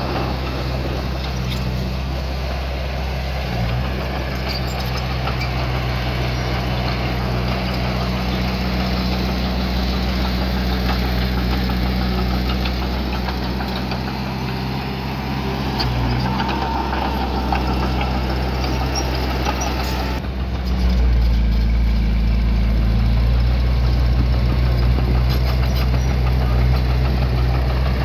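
Diesel engine of heavy earthmoving equipment running steadily; about 20 seconds in the sound changes abruptly to a louder, deeper engine note.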